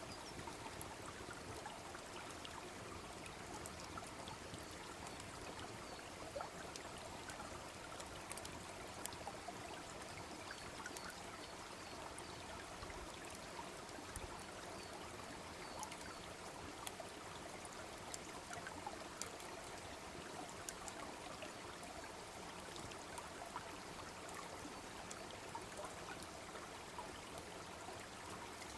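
A babbling brook flowing steadily, with scattered sharp crackles and pops from a wood bonfire burning close by.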